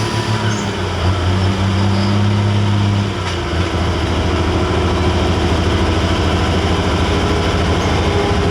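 Light super stock pulling tractor engine running loud and steady. Its pitch shifts a couple of times in the first few seconds, then holds even.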